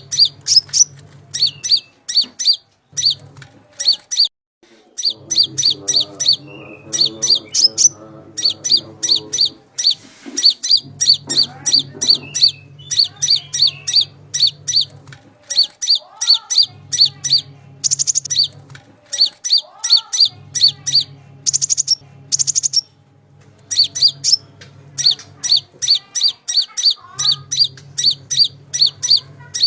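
A konin songbird chirping: runs of rapid, sharp, high notes, several a second, broken by short pauses, with a low hum underneath that comes and goes.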